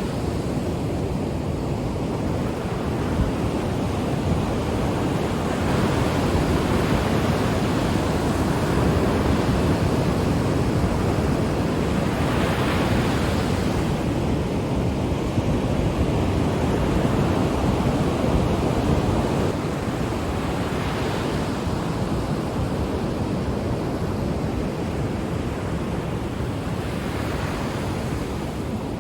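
Ocean waves breaking on a shore: a continuous wash of surf that swells every several seconds as each wave comes in.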